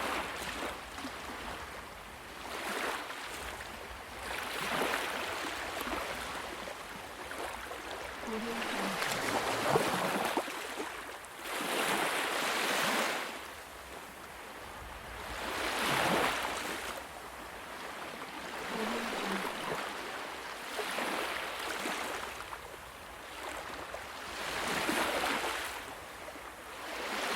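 Ocean waves breaking and washing up the shore, one surge after another every three to four seconds, each swelling and then fading.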